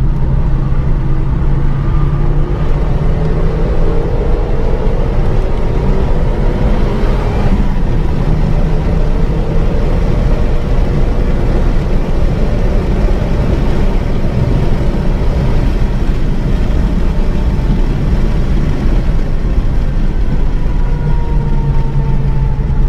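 Renault Mégane 3 RS's turbocharged four-cylinder engine under way at speed, mixed with road and wind noise. Its pitch rises and falls slowly as the revs change.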